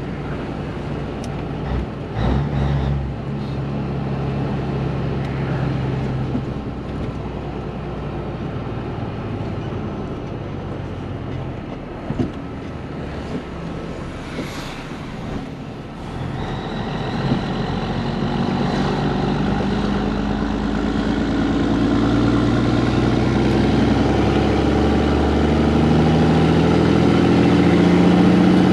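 Diesel engine of a Peterbilt 362 cabover semi truck running on the road. About two-thirds of the way through, the engine note climbs and gets louder, and it rises again near the end.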